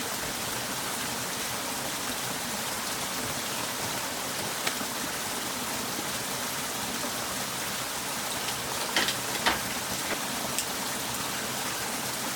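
Steady hiss of water, rain or running water, with a few light clicks and taps about halfway through and again a little later.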